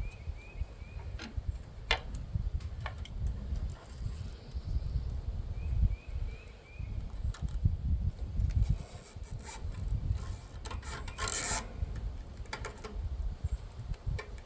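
Wind buffeting the microphone in a constant low rumble, with scattered clicks and knocks of hand work on the trailer and a short scrape about eleven seconds in.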